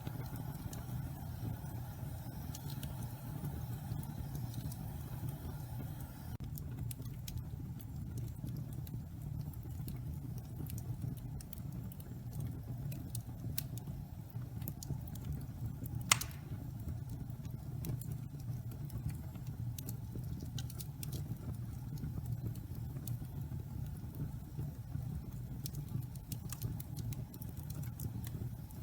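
Damp pine logs burning in a fireplace: a steady low rumble of the fire with scattered small crackles, and one loud pop about halfway through.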